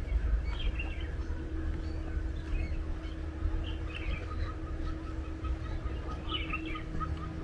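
Wild birds chirping in short scattered bursts, with a run of short repeated notes about three a second in the second half, over a steady low rumble and a faint hum.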